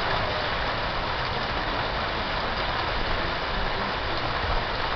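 Steady rain falling on the trees and yard, an even hiss at a constant level, with a low uneven rumble underneath.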